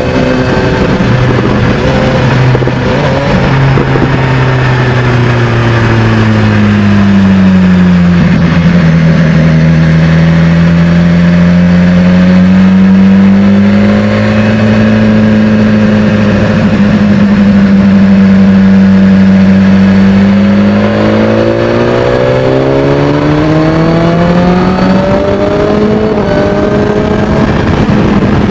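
BMW S1000XR's inline-four engine through a Termignoni exhaust, running loud and steady: its pitch falls slowly over the first several seconds, holds, then climbs again in the last third.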